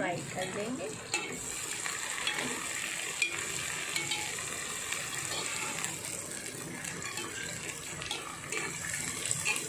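Chopped green onions and coriander sizzling in hot oil in a metal pan while a slotted spatula stirs them, scraping and tapping against the pan now and then.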